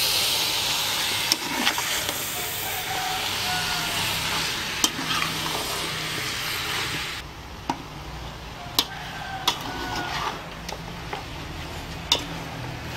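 Chicken pieces frying and sizzling in Khmer curry paste in a pot while they are stirred, with a spatula clicking and knocking against the pot now and then. The sizzle drops off sharply about seven seconds in, and the spatula knocks go on.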